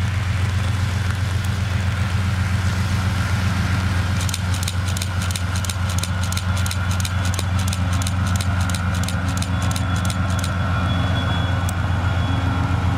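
Diesel locomotive hauling a freight train of stake wagons, its engine a steady low drone. From about four seconds in, for some six seconds, a fast even clicking comes in, about five clicks a second, from the wheels running over the track.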